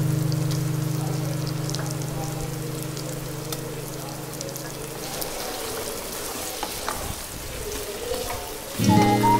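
Chicken pieces and chopped onions frying in oil in a pan, sizzling and crackling. A held background music chord fades out over the first half, and music comes back in near the end.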